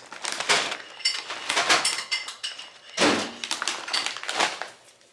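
Rustling and light knocks of a chip bag and a queso container being handled and opened.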